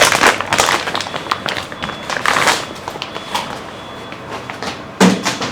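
Plastic packaging of a sealed spool of 3D-printer filament rustling and crinkling as it is handled and opened, then a single sharp knock about five seconds in.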